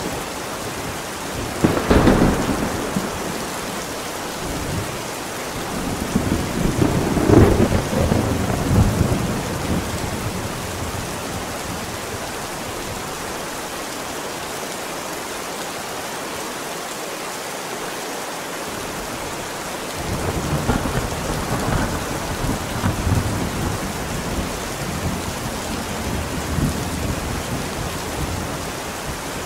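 Steady rain with thunder: a sudden clap about two seconds in, a long rolling rumble a few seconds later, then rain alone for a while before more rolling thunder near the end.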